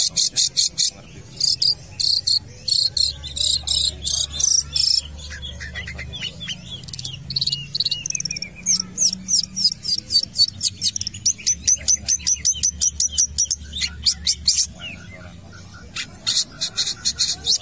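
Long-tailed shrike (cendet) singing in full voice: fast runs of sharp, high chattering notes, several a second, broken by short whistled glides, with a brief pause near the end.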